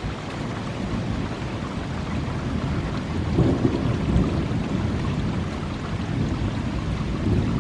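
Steady thunderstorm rain with a low rumble of thunder that swells about three seconds in and again near the end.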